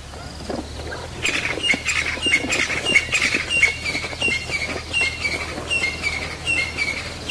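A bird calling over and over from about a second in, a short two-note call, high then a little lower, about twice a second. Underneath are dull knocks and scuffs from two Cape buffalo bulls clashing and shoving in dust.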